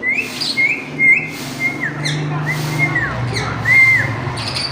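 Parrot whistling a string of about seven short notes at a similar pitch. Some notes are held level and others end in a quick downward slide.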